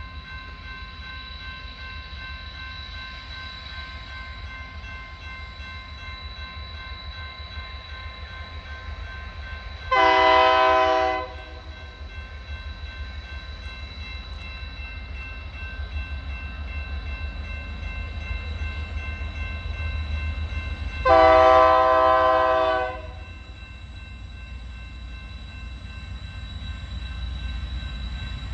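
Diesel locomotive air horn sounding twice, a short blast about a third of the way in and a longer one near the three-quarter mark, over the steady rumble of an approaching coal train that grows louder.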